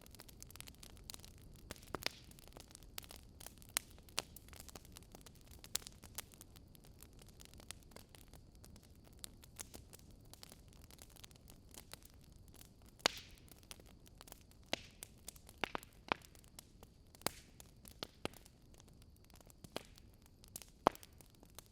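Log fire crackling: irregular sharp pops and snaps over a soft low hiss of burning wood, with a few louder pops about 13 and 21 seconds in.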